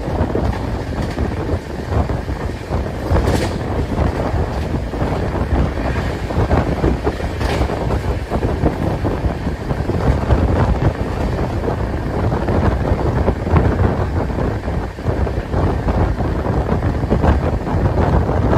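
A moving passenger train running at speed, its wheels and coach rumbling steadily on the rails, with wind buffeting the microphone held out of the coach's open window.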